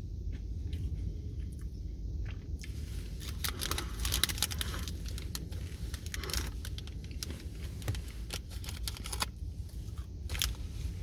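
Crunchy nut bar being chewed: irregular crisp crunching and crackling, strongest in the middle stretch and again near the end.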